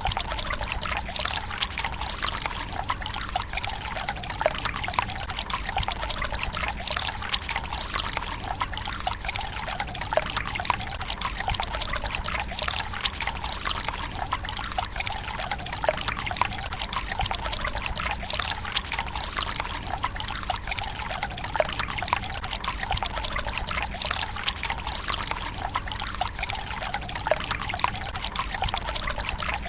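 Water running from a bamboo spout into the stone basin of a Japanese tsukubai: a steady pouring trickle with many small splashes.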